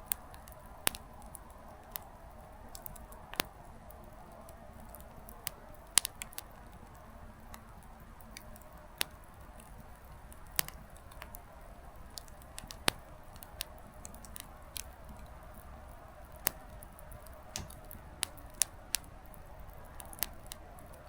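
Small wood fire crackling: irregular sharp pops of burning firewood over a soft, steady hiss of flame.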